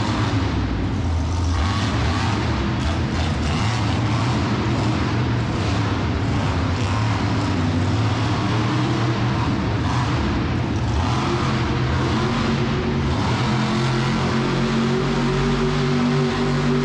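Monster truck engine running continuously, its revs climbing about thirteen seconds in.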